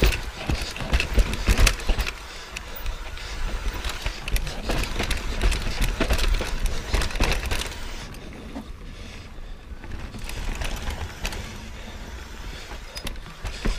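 Mountain bike riding down a rough trail: tyres running over dirt and rock with many knocks and rattles from the bike over bumps, and a low rumble. It eases off about eight seconds in, then picks up again.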